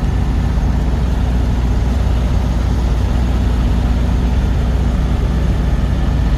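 Truck engine running steadily, a continuous low drone with no change in pitch.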